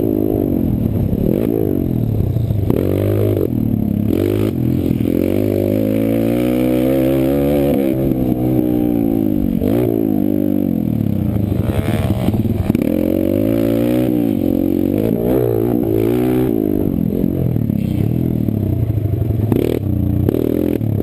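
Kawasaki KLX140 pit bike's single-cylinder four-stroke engine revving up and falling back again and again as it is ridden hard round a motocross track, heard close up from an onboard GoPro.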